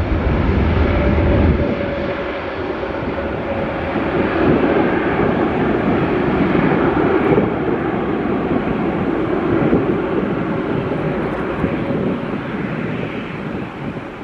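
Jet airliner engines running: a loud, steady rushing noise with a faint steady whine. It eases off toward the end.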